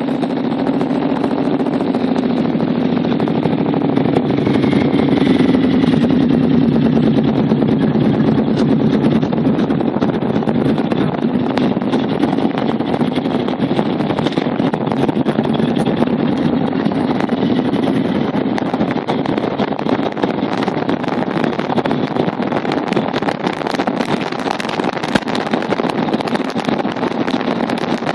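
Motorcycle engine running steadily while riding along, its pitch rising and falling a little, with wind rushing over the microphone.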